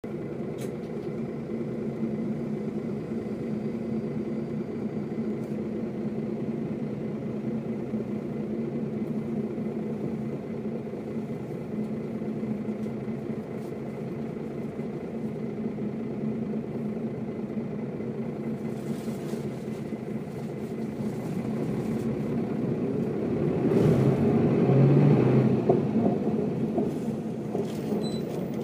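Mercedes-Benz O407 city bus's diesel engine running steadily at low revs, then rising in pitch and loudness about three-quarters of the way through as the bus accelerates, and easing back near the end.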